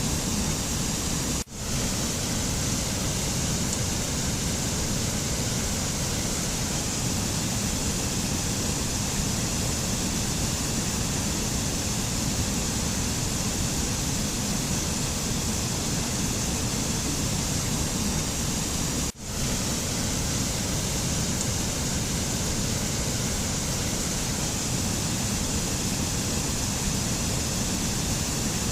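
Steady, even rushing noise of the kind used in mountain-sounds meditation tracks, like a waterfall or wind, with no pitch or rhythm. It cuts out for a split second twice, once near the start and again about two-thirds of the way through.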